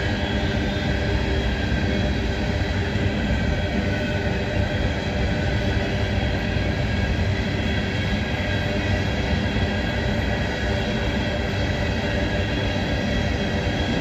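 Coal hopper cars of a freight train rolling past, a steady, continuous rumble of steel wheels on the rails.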